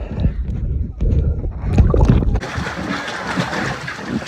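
Wind buffeting the microphone with water sloshing and gurgling. A little over two seconds in, the sound switches abruptly to a steady, brighter hiss of water noise.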